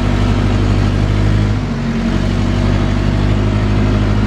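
JCB backhoe loader's diesel engine running steadily, with a slight dip in level about two seconds in.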